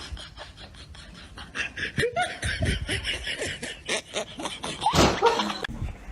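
People laughing, several quick bursts of chuckling and snickering that grow louder after the first second or so.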